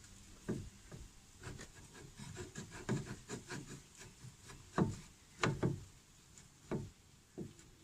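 Disc brake pad being scraped and rubbed by hand in irregular rasping strokes, a few louder ones near the middle.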